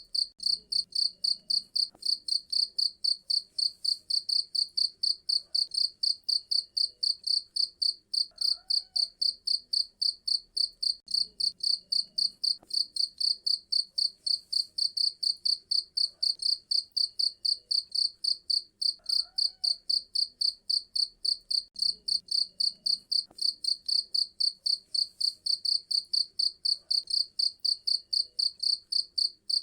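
Cricket chirping loudly in a fast, even rhythm of about four high-pitched chirps a second.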